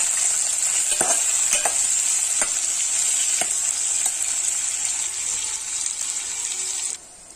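Chopped vegetables sizzling in oil in an aluminium pot as they are sautéed until soft, stirred with a steel spoon that clicks against the pot a few times. The sizzling stops suddenly near the end.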